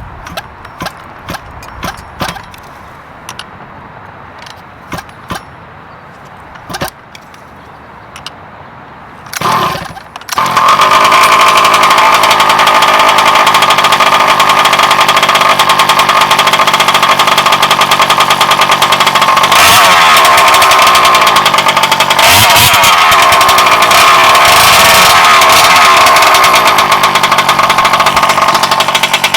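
Several sharp clicks, then about ten seconds in the Bartolone Racing BR40 big-bore two-stroke gas engine of a Losi 5ive-T 2.0 RC truck starts and runs loud and steady, with revving rising and falling in the second half. The engine is on its third tank, not yet fully broken in.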